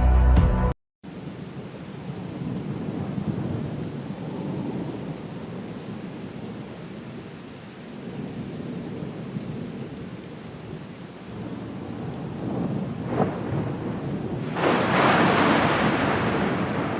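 Steady heavy rain with thunder: a sharp crack about two-thirds of the way through, then a louder thunderclap that rumbles and slowly fades near the end.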